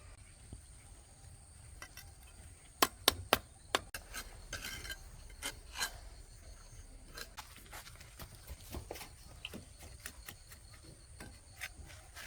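Hand work with hard objects: three loud sharp knocks in quick succession about three seconds in, followed by lighter scattered taps, clicks and scraping.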